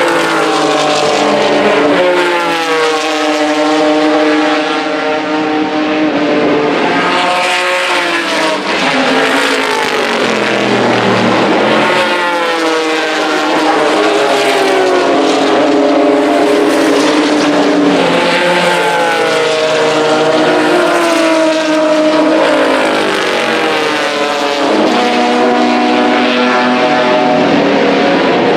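Vintage race car engine at full throttle, its pitch climbing through each gear and dropping sharply at every upshift, with a lower, slower stretch near the middle as it slows for a corner.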